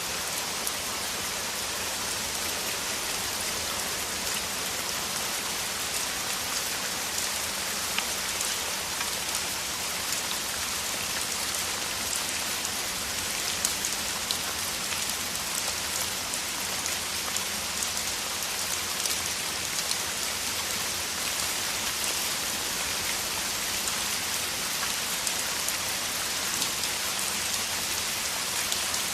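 Heavy rain in a steady downpour: a dense, even hiss with individual drops ticking through it.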